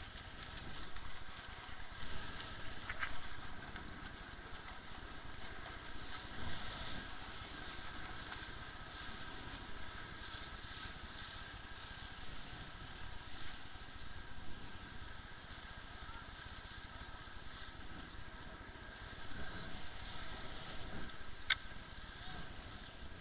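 Umpire motorboat's engine running steadily under way, with a hiss of water and wind; a sharp click stands out near the end.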